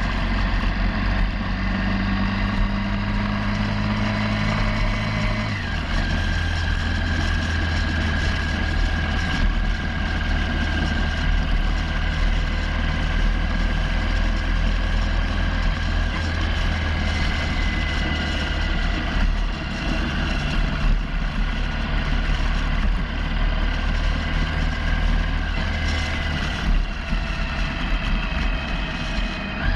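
Motorcycle engine running steadily on the move, its note stepping down once about five and a half seconds in, as at a gear change.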